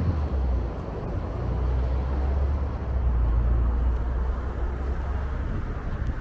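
Street traffic: a motor vehicle's engine running nearby, a steady low rumble that eases off near the end.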